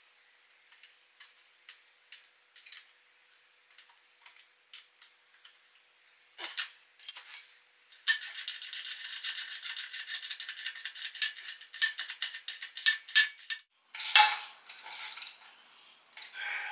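Ratchet wrench clicking in a fast, even run for about five seconds in the middle as the slip-on exhaust's clamp bolt is tightened. Scattered light metal clicks and taps come before it, and a few louder knocks after.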